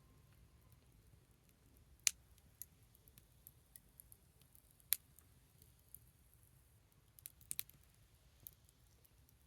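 Small wood fire crackling: sparse, sharp pops, the loudest about two seconds in and near five seconds, with a quick cluster of pops after about seven seconds.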